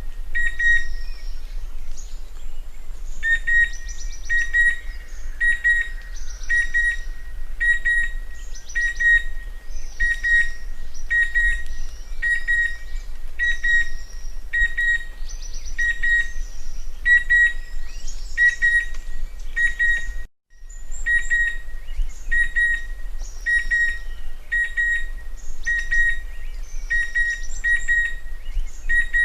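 Chestnut-winged cuckoo calling: a clear whistled note repeated over and over, mostly in quick pairs, with fainter high chirps behind it and a steady low rumble. The sound cuts out for an instant about two-thirds of the way through.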